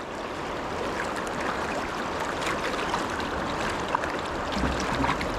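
Steady rush of the Deschutes River's current flowing around a wading angler, with a few faint clicks. A low hum comes in near the end.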